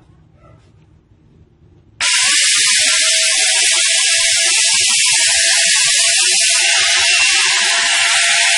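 Electric angle grinder fitted with a chainsaw bar and chain, switched on about two seconds in and then running steadily at full speed without cutting. It makes a loud steady hiss with a high whine. This is its first test run after the conversion.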